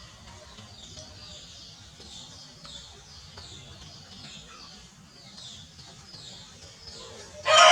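Small birds chirping over and over in the background, short high chirps that fall in pitch. A much louder sound comes in suddenly right at the end.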